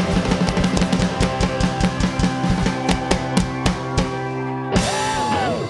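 Live band music with the drum kit to the fore: fast drum strokes over held bass and guitar notes. It ends on a final crash about five seconds in, with the chord held and one note sliding downward.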